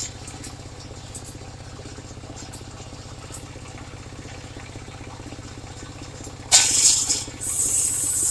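Engine of a portable circular sawmill running steadily with an even low pulse. About six and a half seconds in, the spinning blade bites into the wood with a sudden loud, high-pitched cutting noise.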